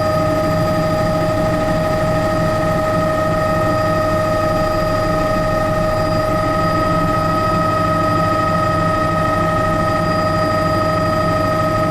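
Helicopter in steady flight: constant engine and rotor noise with several steady whining tones that hold unchanged throughout.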